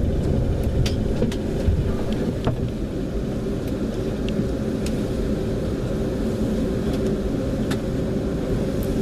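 Class 350 electric multiple unit running on the line, a steady low rumble with a faint steady hum and occasional light clicks.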